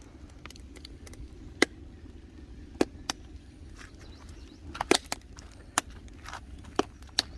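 Wood fire burning strongly in a fire stove, a steady low rush of flame with sharp, irregular pops and cracks from the burning wood, about seven of them.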